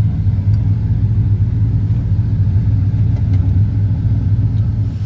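Vehicle engine running at a steady speed, a deep, even rumble that never revs up or down.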